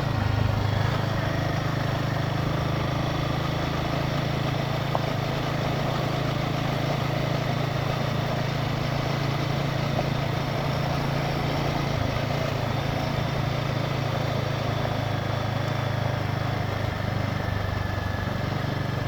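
Royal Enfield Himalayan 450's single-cylinder engine running steadily under way as the motorcycle is ridden over a rough, broken road.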